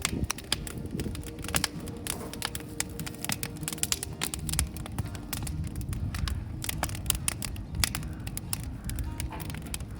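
Wood fire burning, with dense, irregular crackling and sharp pops over a low rush of flame.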